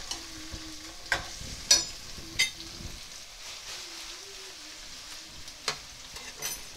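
Sliced onions, green chillies and curry leaves sizzling in oil in a stainless steel pan while being stirred with a metal spoon, the spoon clinking against the pan about five times over a steady frying hiss.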